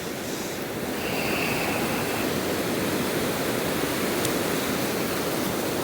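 Ocean surf on a beach: a steady rush of breaking waves that swells a little about a second in.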